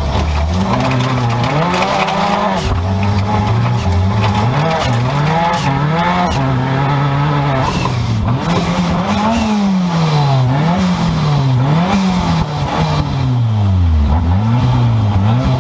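Seat Ibiza 16-valve turbo stock car's engine heard from inside the cabin, revving up and down as the car is driven on a dirt track, with rough road and tyre noise underneath. In the second half the revs rise and fall in quick repeated swings.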